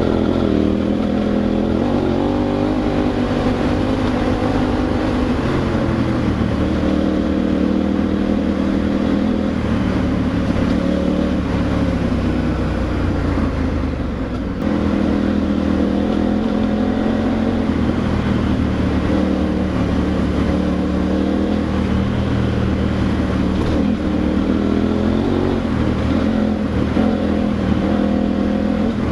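KTM adventure motorcycle's V-twin engine pulling along the road, its pitch rising and falling with the throttle, with a brief dip in level about halfway through.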